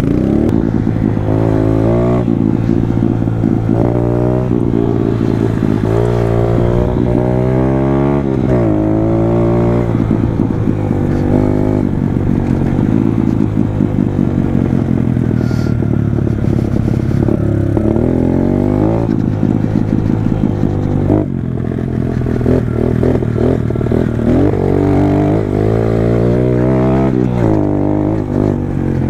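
Small pit bike engine being ridden hard, its pitch climbing under throttle and dropping back again and again as the rider shifts gears, with a brief dip in the revs about 21 seconds in.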